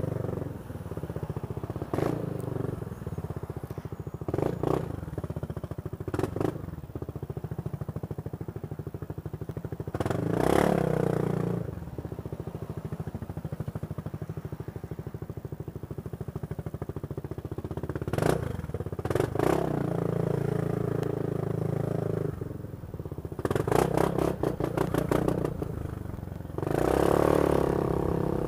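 Motorcycle engine running steadily during a ride, with several brief louder swells throughout.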